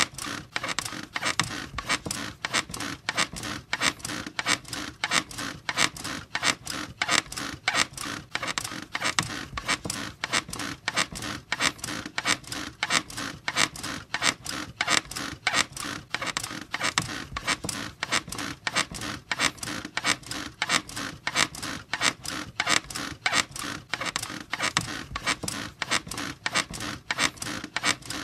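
A squeaky bed creaking over and over in a steady, fast repeating rhythm.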